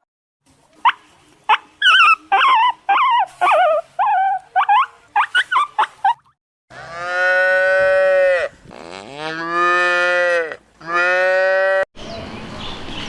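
A cow mooing: three long, low moos in the second half. Before them comes a run of short, high, wavering calls from another animal.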